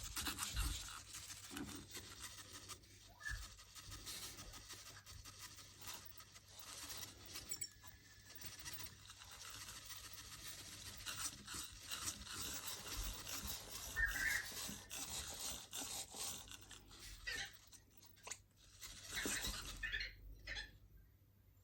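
Faint, irregular scraping and clicking, like small plastic parts being moved or handled.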